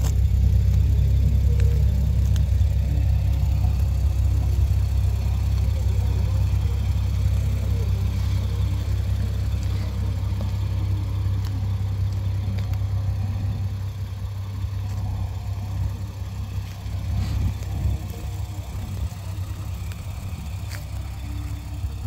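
2023 Nissan Z's 3.0-litre twin-turbo V6 idling, a steady low rumble that fades gradually as the microphone moves away from the rear of the car.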